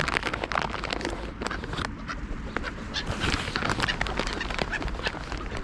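A mixed flock of wild birds at a feeding spot, many short calls and clicks overlapping.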